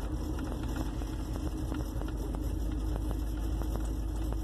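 1958 Plymouth Suburban's engine running steadily, heard from inside the car with a low rumble.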